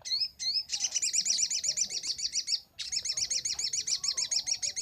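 Little spiderhunter (sogon) singing: two short rising notes, then two long rapid trills of repeated high notes, about ten a second, with a brief break between them.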